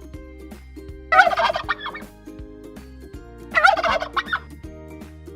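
Turkey gobbling: two gobbles, about two and a half seconds apart, over a soft steady backing tune.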